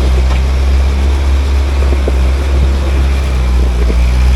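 Off-road vehicle engine running at a steady speed, a loud low drone with a few faint clicks over it.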